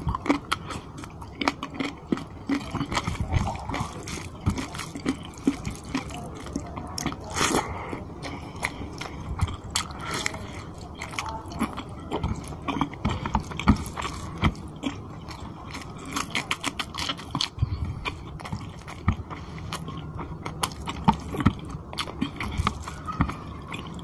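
Close-miked eating of rice and chicken curry by hand: wet chewing and lip-smacking, heard as a constant run of irregular clicks and squelches.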